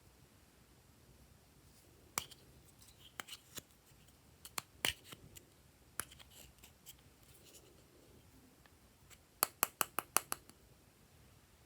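Glossy slime clicking and popping as it is pressed and stretched by hand. Scattered sharp clicks come first, then a quick run of about six louder pops near the end.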